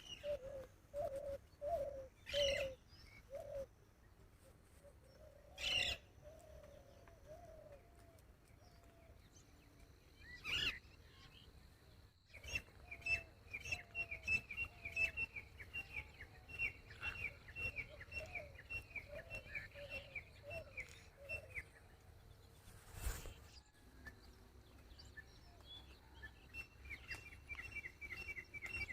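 Birds calling: short lower notes in the first few seconds, then long rapid runs of high chirps, several a second, with a few sharp knocks in between.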